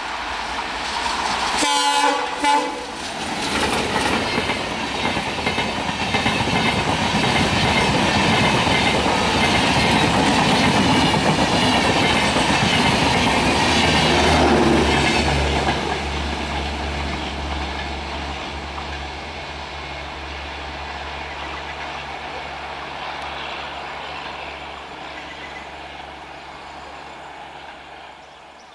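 WDM-3A diesel locomotive sounding a short horn blast about two seconds in, then passing close with its train of LHB coaches. The engine and the wheels clattering over the rail joints make a loud rush that peaks midway and then fades as the train draws away.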